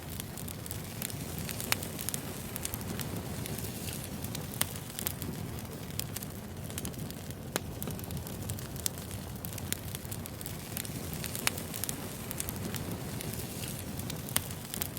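Firewood burning: crackling over a steady low rumble, with frequent irregular sharp pops and snaps.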